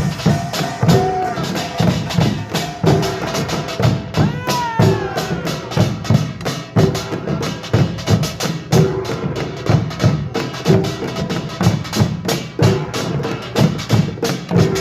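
Korean pungmul percussion ensemble playing a fast, dense rhythm: the clatter of small hand gongs (kkwaenggwari) over janggu and buk drum beats. A short falling cry rises over it about four and a half seconds in.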